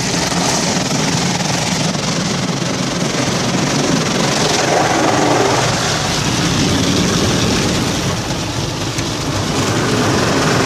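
An automatic car wash working over the car, heard from inside the car: a loud, steady rush of water and machinery on the bodywork, with a low hum underneath.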